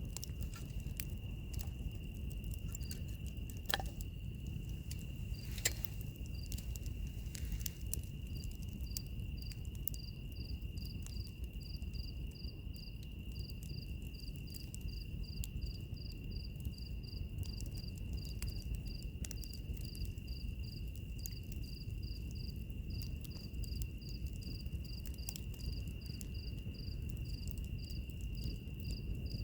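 Wood fire crackling with scattered pops, two louder ones a few seconds in, over a low steady noise, while insects sing: a steady high-pitched drone throughout and, from about a third of the way in, a cricket chirping about twice a second.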